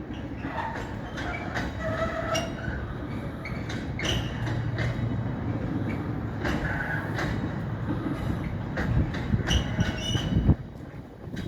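Engineering train rolling past over the crossing: a steady rail rumble with rapid wheel clicks over rail joints and brief squeals. A loud bang about ten and a half seconds in, after which the sound drops away.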